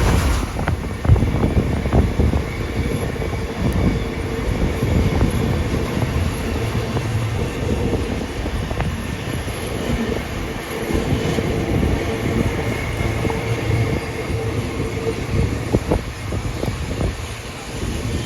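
Passenger carriage running along the track, heard from on board: a steady rumble with scattered clicks of wheels over the rails and a faint steady wheel squeal.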